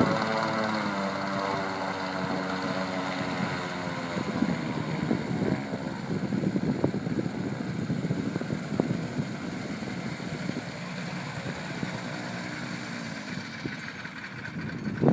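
Mini airboat's 9 hp four-stroke Lifan petrol engine and air propeller running steadily. The pitch dips slightly in the first few seconds, and the sound grows gradually fainter through the rest.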